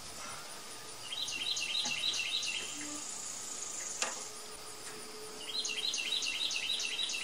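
A bird singing outdoors: two quick phrases of rapidly repeated high chirps, about six a second, a few seconds apart. A single light click falls between them.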